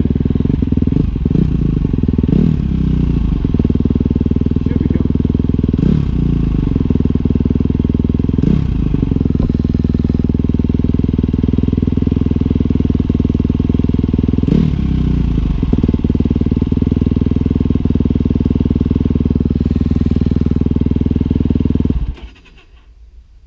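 Dirt-bike engine running hard while riding, rising and falling in pitch a few times with throttle changes. The sound cuts off sharply near the end.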